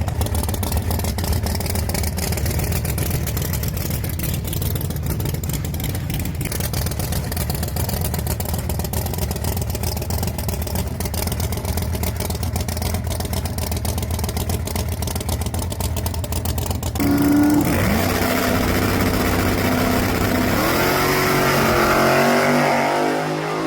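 Hemi V8 in a high-horsepower Chevelle idling, then about 17 seconds in it revs up hard, the pitch climbing in steps.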